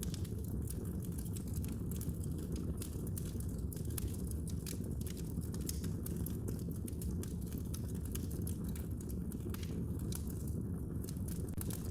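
Wood fire burning in a fireplace: a steady low rumble of the flames with constant irregular small crackles and pops.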